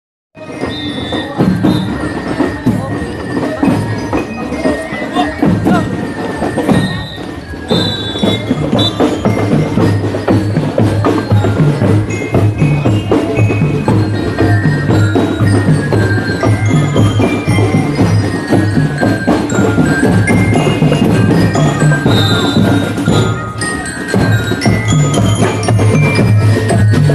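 Band music with bell lyres (glockenspiel-like mallet notes) over drums keeping a steady marching beat.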